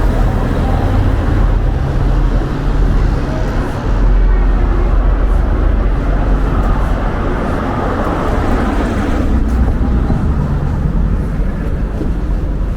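Wind buffeting the microphone, a loud uneven low rumble over the general noise of a city street.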